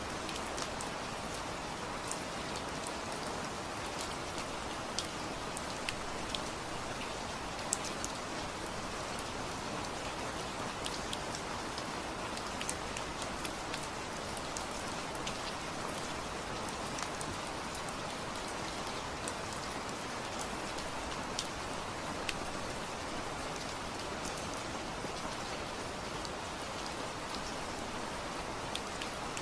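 Steady rain falling, with individual drops ticking sharply on a surface here and there over the even hiss.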